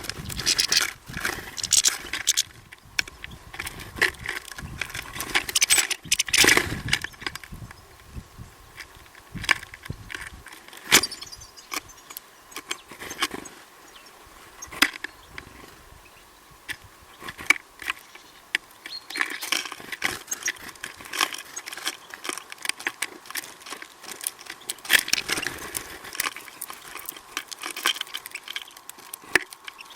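Irregular tapping, clicking and scratching, typical of birds pecking and scrabbling at a seed feeder, busier in several spells.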